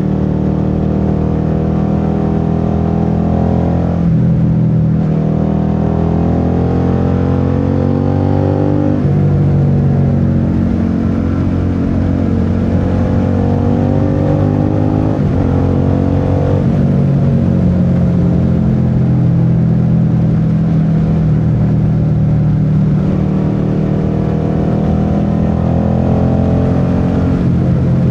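Suzuki SV650's 645 cc V-twin engine under way, revs climbing in a gear and then dropping at each upshift, about four or five shifts, with a stretch of falling revs in the middle as the bike eases off.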